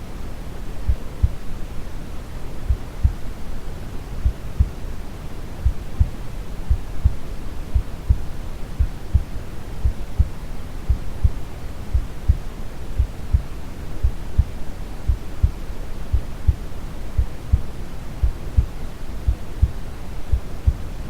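A slow, calm heartbeat, each beat a pair of low thumps about once a second, over steady brown noise.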